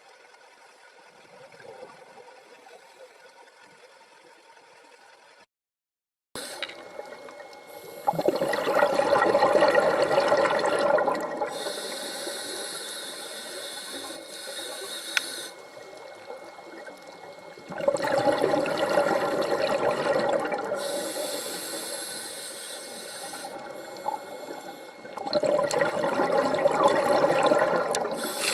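Water splashing and gurgling in three loud surges a few seconds long, after a faint hiss and a brief dead silence about five seconds in.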